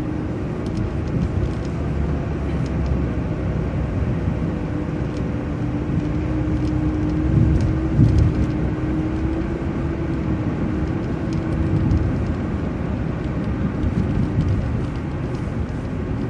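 City transit bus driving, heard from inside: steady engine and road rumble with a constant droning tone from the drivetrain, growing briefly louder about halfway through.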